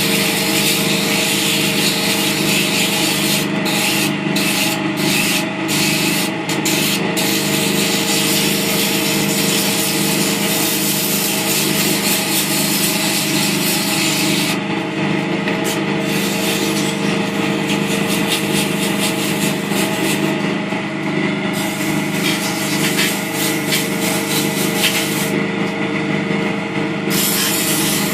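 Abrasive paper hissing against spinning oak on a running wood lathe, over the lathe's steady hum. The hiss cuts out for a moment several times as the paper is lifted off, most often a few seconds in.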